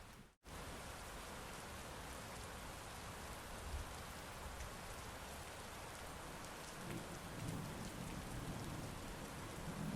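Heavy rain falling steadily, a dense even hiss, with a low rumble of thunder building in the second half. The sound cuts out for an instant about half a second in.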